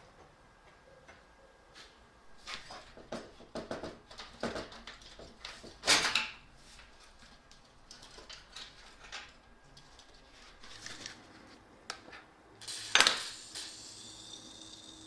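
Metal tools and parts clinking and knocking at irregular intervals, with two louder metallic clanks about six and thirteen seconds in. A faint steady hum sets in after the second clank.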